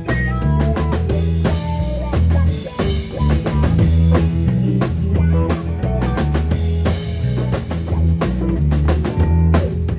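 Rock band playing live, an instrumental passage with drum kit, guitar and a prominent bass line.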